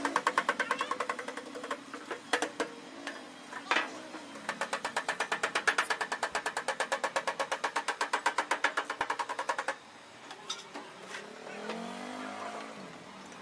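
A machine making rapid, evenly spaced knocking strokes, about six a second. It runs briefly, stops, and runs again for about five seconds before cutting off, with a few single knocks around it.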